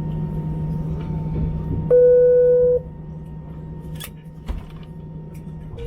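Steady low hum of an airliner cabin's air system. About two seconds in, one loud electronic beep sounds on a single pitch for just under a second and cuts off suddenly.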